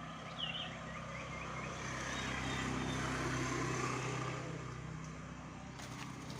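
A motor vehicle passing by: engine hum and tyre noise build to a peak about three seconds in, then fade. A bird chirps briefly near the start.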